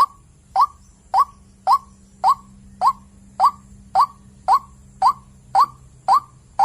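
White-breasted waterhen (ruak-ruak) calling: a short upward-sweeping note repeated steadily about twice a second.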